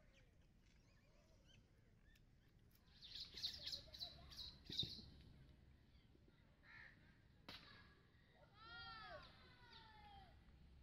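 Faint outdoor bird calls: a cluster of high chirps about three seconds in, then a string of arching calls near the end, with a couple of sharp clicks between.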